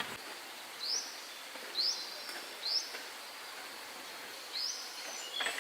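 A bird calling with short, quickly rising chirps, four of them roughly a second apart, over a steady outdoor hiss, with a sharp click near the end.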